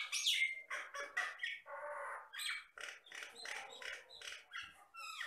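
A jalak batam myna singing energetically: a rapid, unbroken string of varied whistles, chatters and harsh notes, the mimicking kind of song these mynas are known for.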